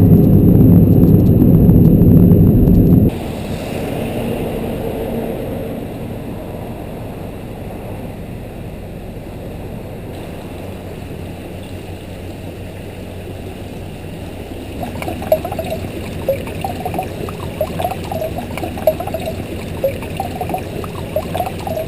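Steady rushing noise after a sudden cut from loud car-cabin engine noise about three seconds in; from about fifteen seconds in, a wood fire crackling with scattered sharp pops.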